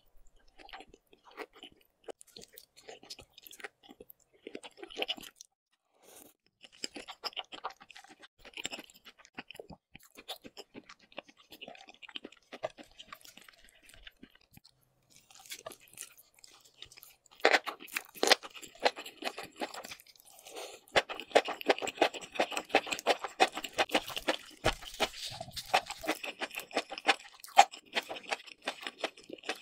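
A person chewing food close to the microphone, with wet mouth clicks as sauce-covered raw salmon is eaten. About halfway through, the chewing turns louder and crunchier and stays dense.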